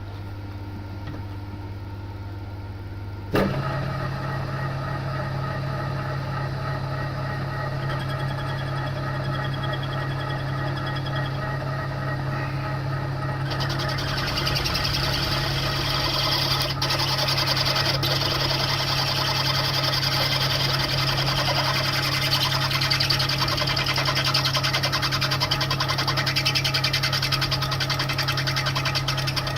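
TOS milling machine spindle starting with a clunk about three seconds in and running with a steady hum. From about thirteen seconds in, a high hiss joins as the carbide drill bit cuts into a snapped exhaust stud.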